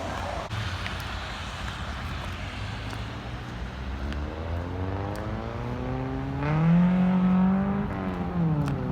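A car's engine accelerating over a steady low rumble. Its pitch rises for about three seconds, holds briefly, then drops near the end.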